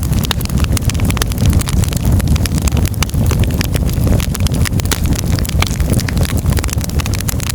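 Wood fire crackling in a fireplace: many irregular sharp pops and snaps from the burning firewood over a steady low rumble of the flames.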